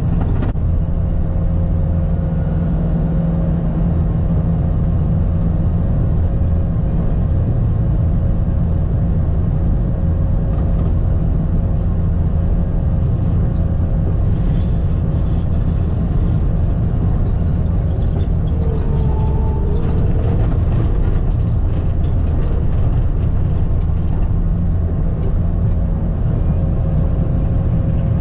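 Skid steer's diesel engine running steadily under load, with a steady whine over the engine noise and a brief wavering tone about two-thirds of the way through.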